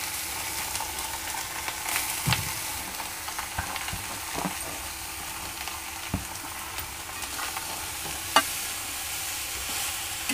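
Freshly added grated carrot sizzling in hot ghee in a metal pan while being stirred, with occasional scrapes and taps of the spatula against the pan and one sharper tap about eight seconds in.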